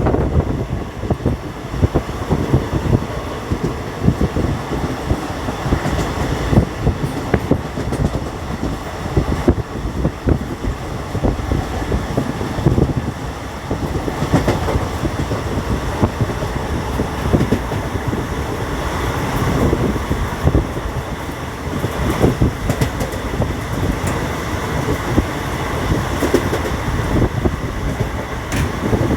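Steady rumble of a moving vehicle with a dense run of irregular knocks and rattles.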